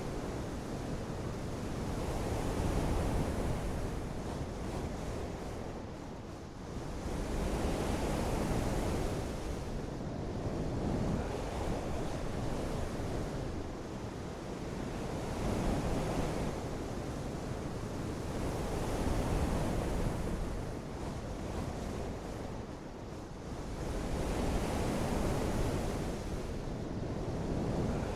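Continuous rushing water noise that swells and ebbs every few seconds.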